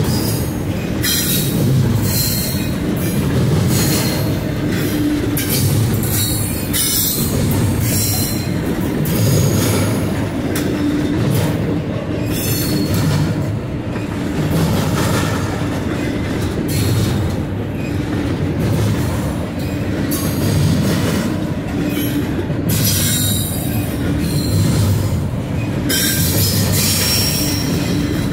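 Cars of a long intermodal freight train rolling steadily past close by: a continuous rumble of wheels on rail, broken by a repeated clatter as wheelsets cross rail joints, with brief high wheel squeal at times.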